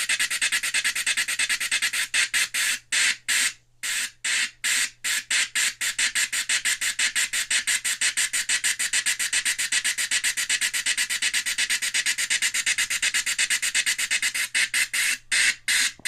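RC steam-model sound board through a small speaker, playing steam-engine exhaust chuffs: a fast run of hissing chuffs that slows for a couple of seconds early on, speeds up again, and slows once more near the end, over a faint steady hum.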